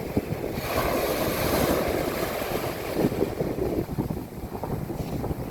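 Mediterranean sea waves breaking on a beach: a wave's hissing wash swells in under a second in and fades over the next few seconds, over a steady surf rumble. Wind buffets the microphone throughout.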